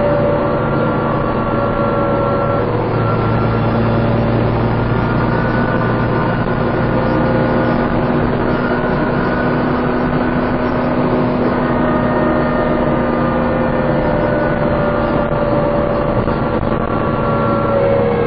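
Dennis Trident 2 double-decker bus driven hard, its engine pulling steadily with a held whine over the engine note, the vacuum-cleaner-like "hoover" sound. Near the end the tones drop in pitch.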